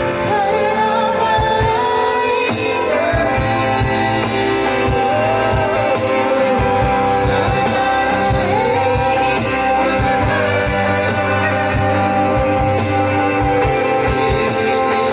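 Hindi Christian worship song sung with instrumental backing and a steady beat.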